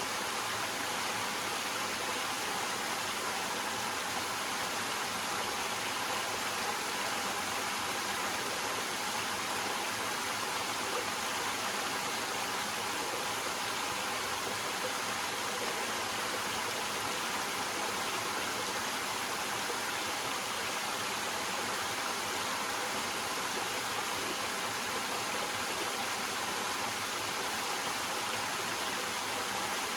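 Small waterfall splashing over rocks: a steady, even rush of falling water, mostly in the upper range, with no breaks.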